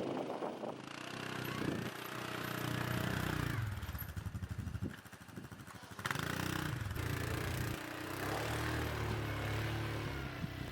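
Four-wheeler (ATV) engine running under changing throttle, its pitch rising and falling several times. It drops lower about halfway through, and a sharp knock comes just before it picks back up.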